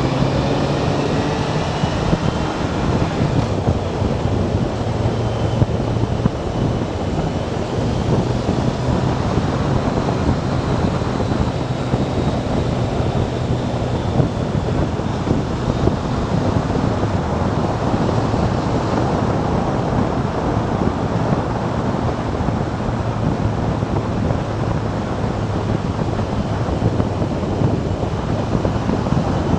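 Motorcycle riding at speed: wind rushes over the microphone above the steady drone of the bike's engine. In the first few seconds the engine note falls.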